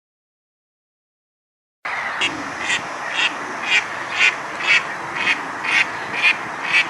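Silence, then about two seconds in an animal call starts, repeated evenly about twice a second over a steady hiss.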